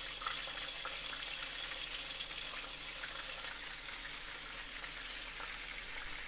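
Floured cube steaks shallow-frying in hot oil in a skillet: a steady sizzle.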